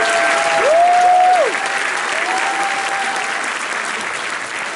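Theatre audience applauding, with a couple of held whoops from the crowd in the first few seconds; the applause dies down slowly.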